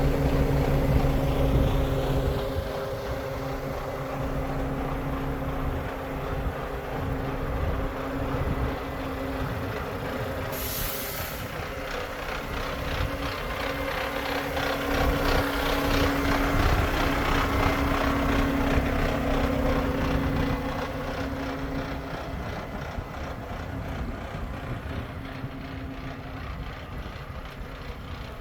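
Iveco Stralis truck's diesel engine running, its level swelling and easing, with a brief sharp hiss of air, like an air brake, about ten seconds in.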